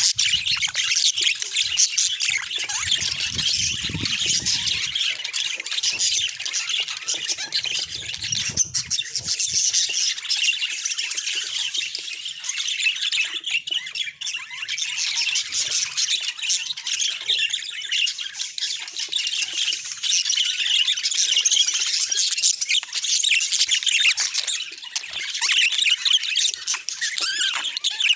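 Budgerigars chattering and chirping in a dense, unbroken stream of high, rapid notes.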